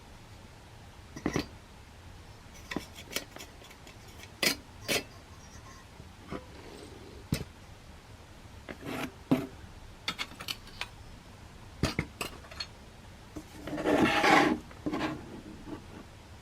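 Small metal parts of a camping stove being handled: scattered light clicks and knocks, with a longer scraping rub about fourteen seconds in that is the loudest sound.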